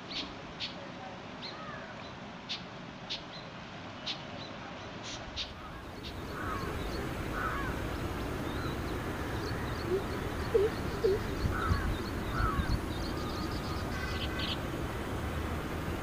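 Birds calling: short, high chirps about once or twice a second. About six seconds in there is a cut to a noisier recording with a steady background hiss and scattered harsher calls, the loudest a few seconds later.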